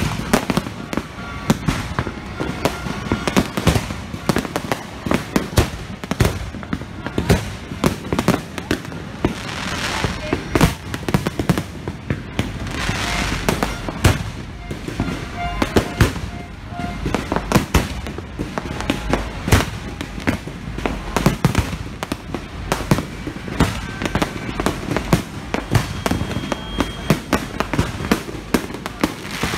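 Aerial fireworks display: a continuous, irregular barrage of shell bursts and bangs in quick succession.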